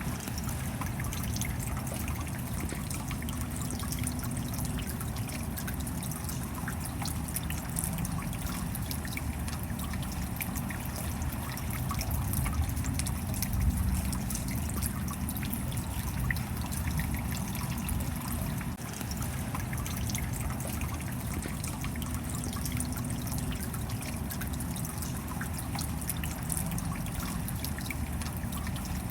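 Steady rain falling, with water trickling and many fine drop ticks.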